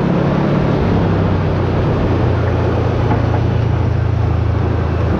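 Side-by-side UTV engine running at a steady cruise, a low drone over the hiss of tyres and wind while driving along a gravel road.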